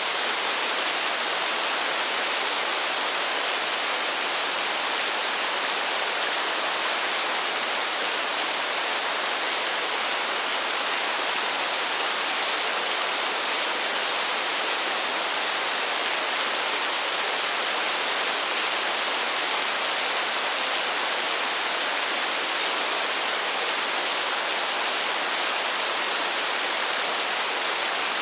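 Steady rainfall: an even, unbroken hiss with no single drops or gusts standing out.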